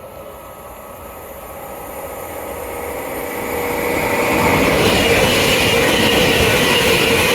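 Passenger train approaching and running through the station, its noise growing steadily louder over the first four seconds or so, then loud and steady as it passes, with a steady hum over the rush of the wheels.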